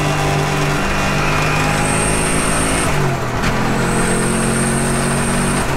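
Turbocharged Toyota 1UZ-FE V8 of a Lexus LS400 drift car running at steady revs, heard from inside the stripped-out cabin. About three seconds in, the engine note drops a little in pitch and then holds steady again.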